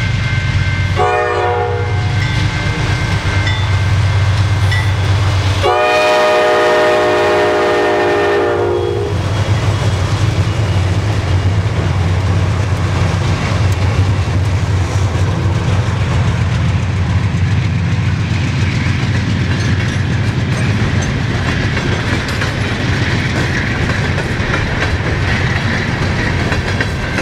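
GE B40-8 diesel locomotives running past, sounding the horn in a short toot about a second in and then a long blast about six seconds in that falls in pitch as it ends. After that come the steady rolling and clickety-clack of hopper cars' wheels over the rail joints.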